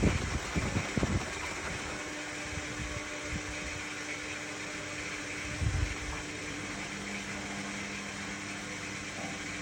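Indesit My Time EWD61052 front-loading washing machine running mid-cycle: a steady motor hum with water swishing in the drum, and low thuds in the first second and again about six seconds in as the load tumbles.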